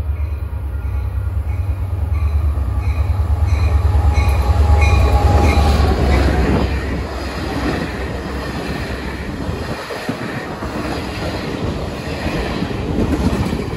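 Caltrain diesel-hauled passenger train passing at speed: the locomotive's heavy engine rumble builds, peaks about five seconds in and drops away sharply a little later. The double-deck passenger cars then rush past with wheels rattling on the rails. A bell rings in even strokes a little over twice a second through the first five seconds or so.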